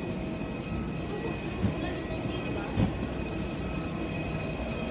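Steady low mechanical rumble with faint steady high tones, and two short knocks a little before and after the middle.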